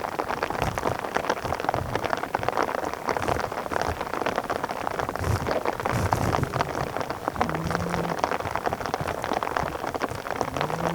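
Steady rain falling on a surface, a dense, even crackle of drops.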